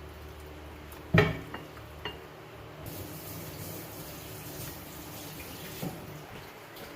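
A sharp clack about a second in, then a kitchen tap running into the sink for about three seconds, with a light knock near the end.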